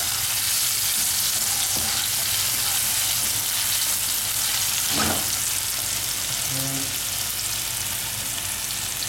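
Ginger-garlic paste sizzling in hot oil in a frying pan, a steady high hiss, stirred with a wooden spatula. There is a single knock about five seconds in.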